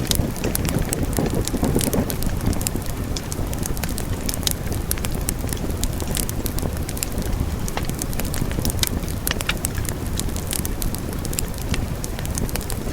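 Wood fire burning steadily, with a low rushing rumble of flames and many irregular sharp crackles and pops of burning logs.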